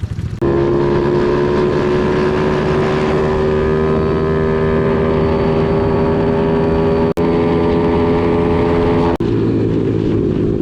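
Small single-cylinder four-stroke pit bike engine running under steady load, its pitch climbing slowly as it pulls, with two brief breaks about seven and nine seconds in.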